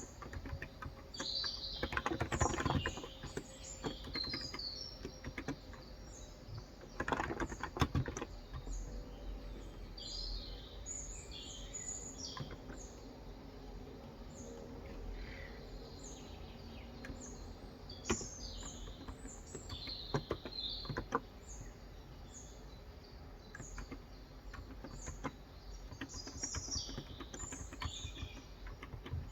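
Small birds chirping in short, repeated high calls throughout, with brief bursts of typing on a COX Endeavor electrostatic capacitive (contactless, 35 g) keyboard about two seconds in and again around seven seconds in, and a few lone keystrokes later.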